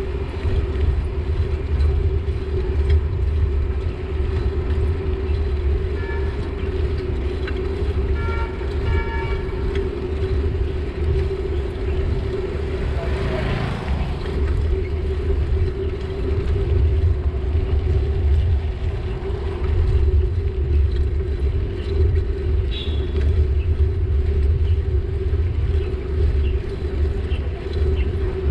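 City road traffic heard while cycling, with a steady low rumble. A vehicle horn toots several times about six to nine seconds in, and a vehicle passes close by about thirteen seconds in.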